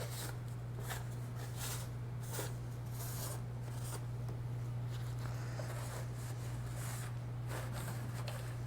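Light, irregular scraping and rubbing strokes as the rusted, flaking housing of a disco light is cleaned by hand, with small clicks among them, over a steady low hum.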